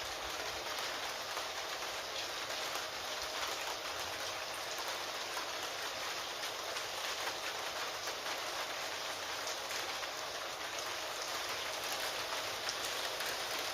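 Steady rain falling, a dense even hiss with fine pattering drops.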